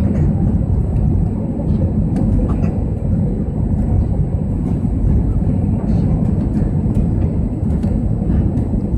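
Airbus A321 passenger cabin noise during the landing approach: a steady, even low rumble of engines and airflow heard from inside the cabin.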